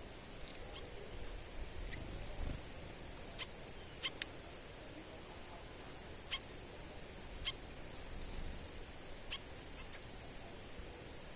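Small birds giving short, sharp chip calls at irregular intervals, about a dozen in all, over a low steady outdoor background noise.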